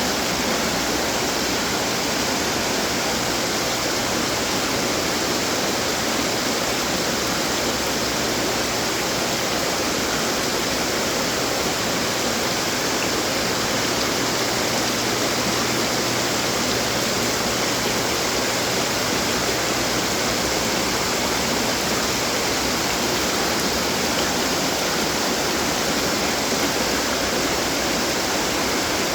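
Water from running garden fountains splashing and trickling steadily, an even rushing sound with no breaks.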